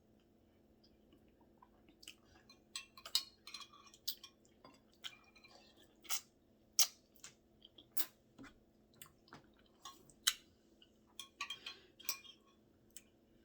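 Close-up chewing and mouth noises of someone eating chicken: irregular wet clicks and smacks, some sharp, with short gaps between them.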